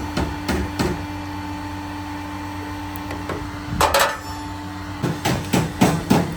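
Hammer blows on the car's crumpled front bodywork during accident repair: a quick series of knocks, a pause of a few seconds with a steady hum under it, a loud scraping clatter near the middle, then another series of blows near the end.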